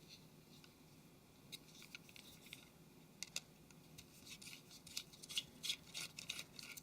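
Faint small clicks and scrapes of a small tool and fingers working on a Nokia Lumia 720's internal parts, a few around two seconds in and more frequent in the last three seconds.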